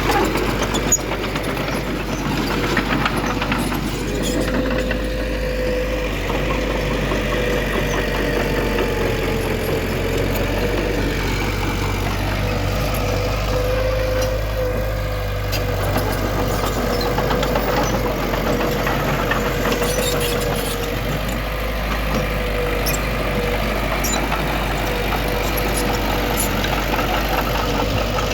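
Diesel engine of heavy earthmoving machinery running steadily under a constant drone.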